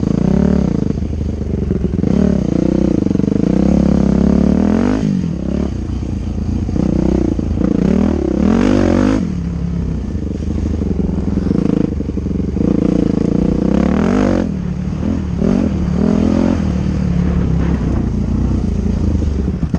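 Dirt bike engine revving up and down as it is ridden, the throttle opening and closing every few seconds.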